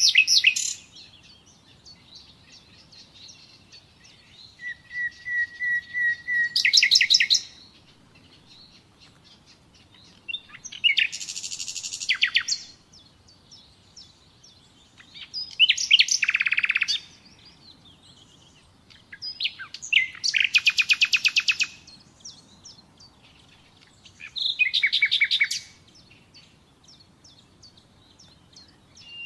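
Nightingale singing: five short song phrases with gaps of a few seconds between them, each a rapid run of repeated notes and trills, one opening with a long held whistle.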